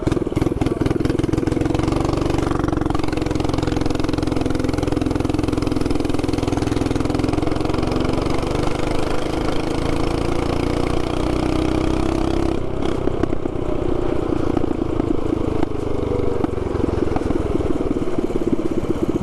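Stock 224cc single-cylinder mini bike engine with a short straight pipe and an aftermarket carb, running under throttle while riding. Its pitch wavers gently up and down, with a brief dip about two-thirds of the way through.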